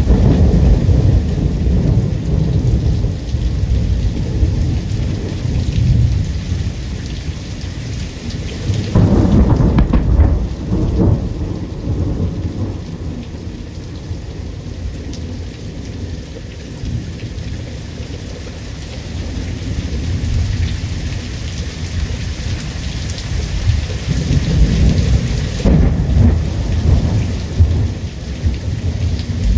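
Heavy rain falling steadily through a thunderstorm, with repeated rolls of thunder. A louder, sharper clap breaks in about nine seconds in and rumbles on for a few seconds, and more thunder builds near the end.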